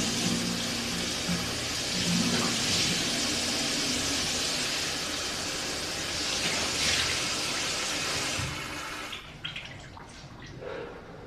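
Running water, a steady rush that stops about nine seconds in, followed by a few faint knocks.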